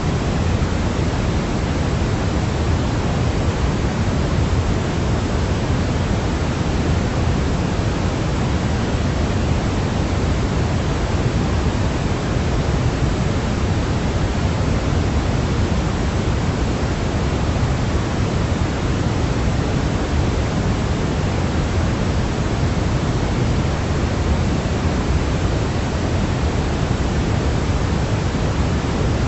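Synthetic sleep noise: a steady, unchanging hiss, heavier in the low end and thinner toward the top.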